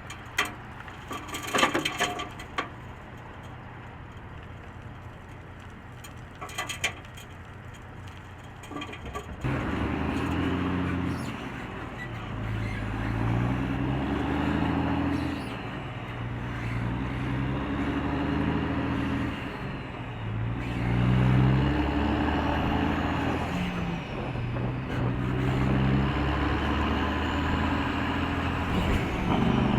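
Heavy truck engine pulling away and accelerating, its pitch climbing and dropping back several times as it shifts up through the gears, starting about a third of the way in. Before it, only a few clicks and knocks over a low steady background.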